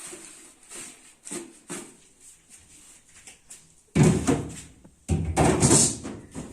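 Refrigerator parts being handled: a few light knocks, then two loud clattering slides of about a second each, around four and five seconds in, like a fridge drawer being pushed into place.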